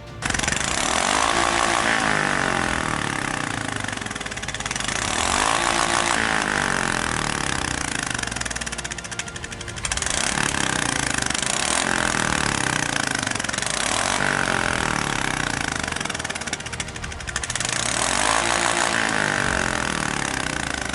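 Single-cylinder Royal Enfield Classic 350 motorcycle engine breathing through a Rumbler Max aftermarket exhaust, its revs rising and falling several times every few seconds.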